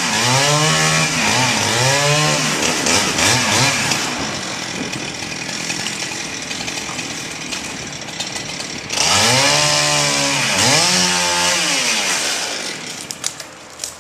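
Chainsaw revving up and down several times, then running steadily under load as it cuts into sycamore wood. It revs again about nine seconds in and drops away near the end.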